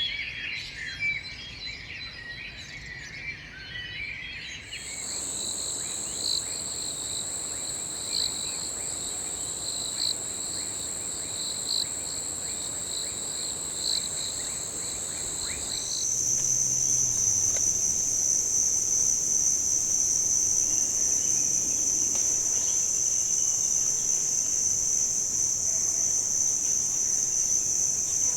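A few seconds of small birds chirping rapidly, then a steady, high-pitched insect drone of crickets or cicadas in a tropical forest. About a third of the way through it changes abruptly, and about halfway through a louder, steady insect whine takes over.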